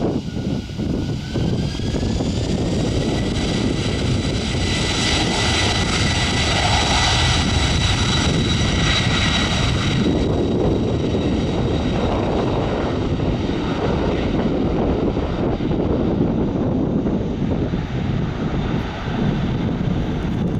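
Airliner engines at takeoff power: a steady high whine that rises in pitch in the first few seconds, over a heavy rumble. The higher tones of the whine thin out after about ten seconds, leaving the rumble.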